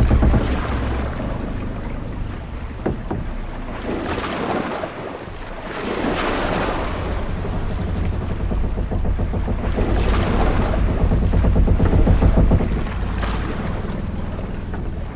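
Sea and wind around a sailing ship: a steady low rumble under waves washing in slow swells, loudest near the end, with a few short knocks from the ship.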